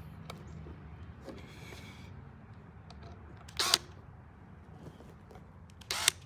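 Short scraping clicks of a screwdriver and wire being worked on an electrical outlet's terminal screw, with two louder sharp scrapes, one in the middle and one near the end, over a low steady hum.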